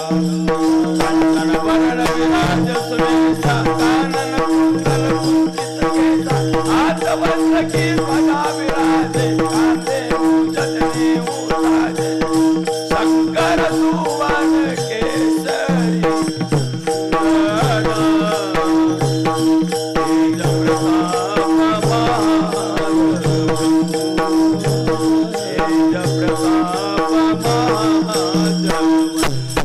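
Devotional kirtan music: a steady pulsing drone under a wavering melody line, with hand percussion keeping an even rhythm.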